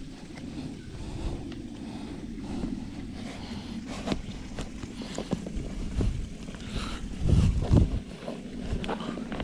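Horse walking on a trail: irregular hoof falls and tack knocks over a steady low rumble, with a few louder thumps about seven seconds in.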